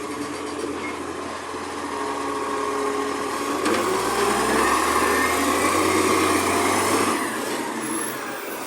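Garbage truck running, with a mechanical whine over the engine; the engine note steps up about three and a half seconds in and drops back a few seconds later.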